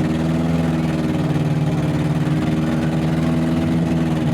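Compact demolition derby car engines running steadily at a low, even pitch, with no crashes.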